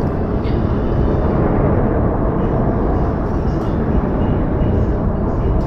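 Steady outdoor ambience of falling snow: an even, low rumbling noise with a few faint, soft ticks.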